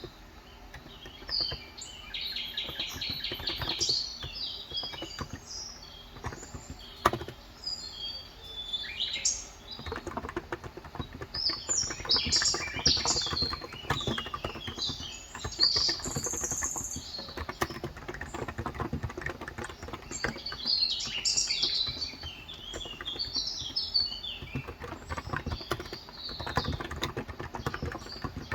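Continuous typing on a Cox Endeavor electro-capacitive (Topre-style) 35g tenkeyless keyboard, a dense run of soft keystroke clicks, with small birds chirping over it throughout.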